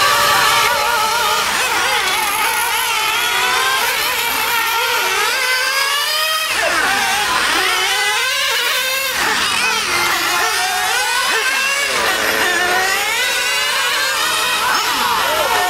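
Small high-revving Alpha model engine running hard, its pitch wavering up and down throughout, with sharper swoops about six, nine and eleven seconds in.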